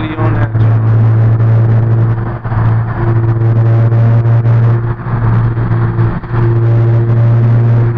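Car engine and exhaust droning loudly inside the cabin while driving, a steady low hum with a few brief dips as the throttle eases off.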